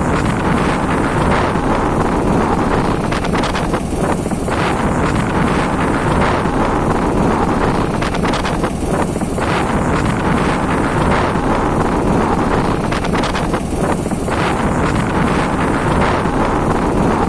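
Motorcycle running on the move, mixed with heavy wind buffeting on the microphone.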